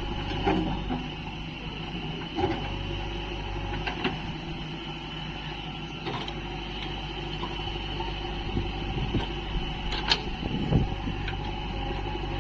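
Heavy machine's diesel engine running steadily, with a few scattered knocks and clanks, loudest near the end.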